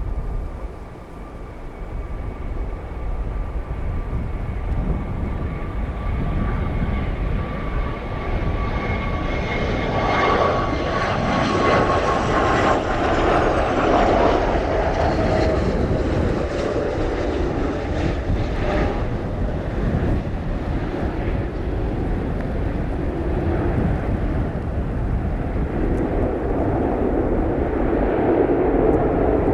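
Airplane passing overhead, its engine whine gliding down in pitch as it goes by, then a loud steady rumble.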